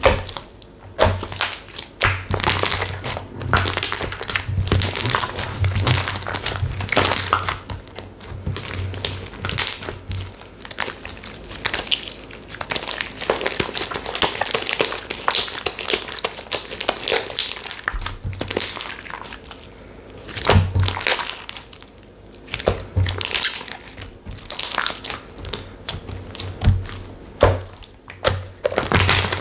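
Slime being squished, pressed and pulled by hand, making a steady run of irregular crackles, clicks and pops, with soft low thunks as it is pressed down.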